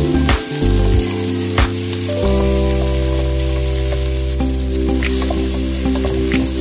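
Sliced onions sizzling as they fry in oil in a pot, with a wooden spoon stirring and knocking against the pot now and then. Held background music chords run underneath.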